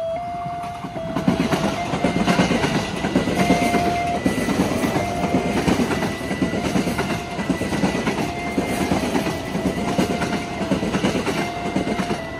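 KRL Commuterline electric train passing close by, its wheels clattering over the rails in a steady pulsing rhythm, with a steady high tone held underneath. The clatter builds about a second in and drops off sharply at the very end as the train clears.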